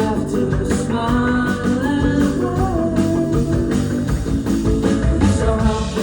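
Rock-style band music with a sung lead vocal over guitar and drums, loud and steady.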